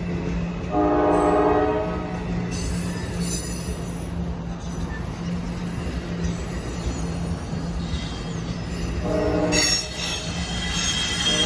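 NJ Transit ALP-46 electric locomotive train sounding its horn twice, a blast of about a second near the start and a shorter one near the end, with high-pitched squealing from the wheels and brakes in between and after, over a steady low hum.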